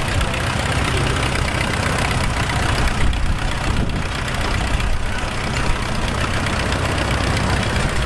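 Vintage tractor engines running steadily with a low, even rumble.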